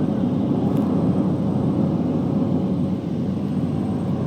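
Cabin noise of a Cessna Caravan in flight: its single Pratt & Whitney PT6A turboprop and propeller running steadily, a dense low drone with a faint steady whine above it.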